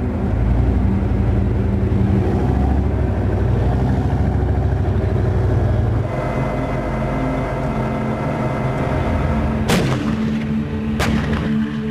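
Leopard tank engines running with a steady, deep drone that changes character about halfway through. Near the end come two sharp gunshots a little over a second apart, from live-firing exercises.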